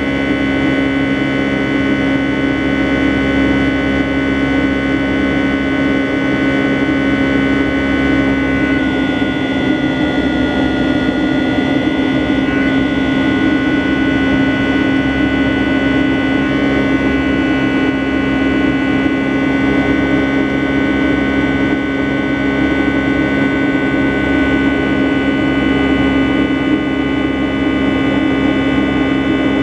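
Steady jet drone inside the cabin of a Boeing 757-200 powered by Rolls-Royce RB211 engines in flight: a loud, even hum made of many steady tones. The higher whining tones shift in pitch a few times, about a third of the way in and again near the middle.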